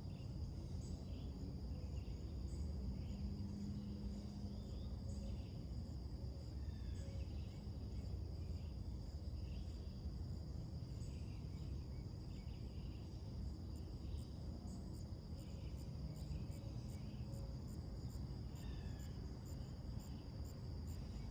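Crickets trilling steadily, with short scattered bird calls, over a low steady background rumble. Near the end a faster run of regular high chirps joins the trill.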